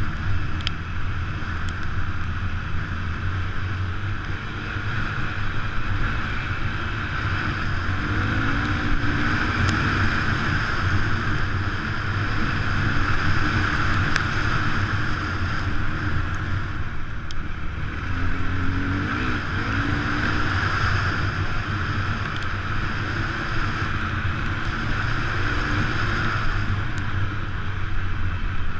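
Enduro dirt bike engine running steadily while riding, with heavy wind noise on the microphone; the engine note rises and falls a little a few times.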